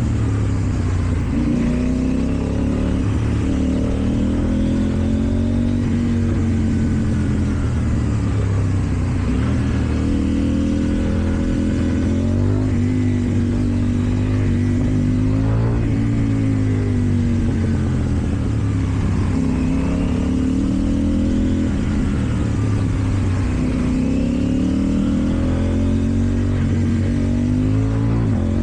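KTM Duke 790 parallel-twin engine through an Akrapovič exhaust, accelerating and shifting in traffic: the engine note climbs in pitch and drops at each gear change, several times over.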